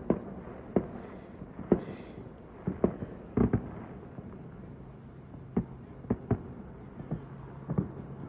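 Fireworks going off: about a dozen sharp bangs and pops at irregular intervals, the loudest pair about three and a half seconds in.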